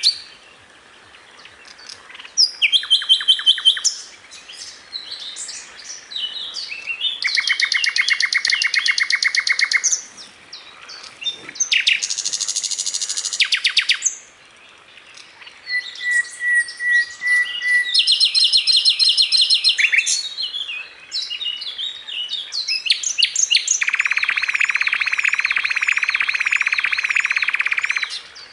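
A songbird singing a varied song in separate phrases: fast rattling trills of repeated notes, chattering runs, a short steady whistle just past the middle, and one long buzzy trill near the end, with short pauses between phrases.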